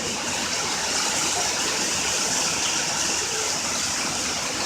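Heavy rain pouring down in sheets, a steady loud hiss.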